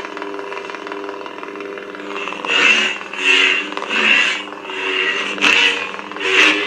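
Lightsaber sound font playing from a saber's speaker: a steady low hum, then from about two seconds in a run of swing swooshes, about one every two-thirds of a second, with two sharp clicks near the end.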